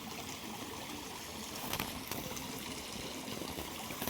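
Small river flowing steadily, a continuous trickling rush of water.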